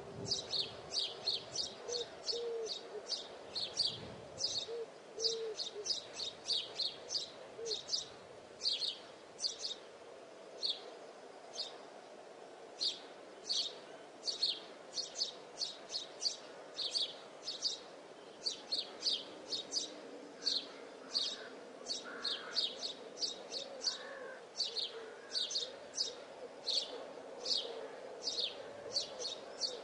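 Birds chirping in woodland: a steady, irregular run of short high chirps, two or three each second.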